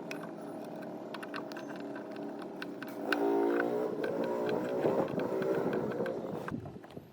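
A small motor running steadily with light clicks. About three seconds in it gets louder and its pitch wavers, then it fades out near the end.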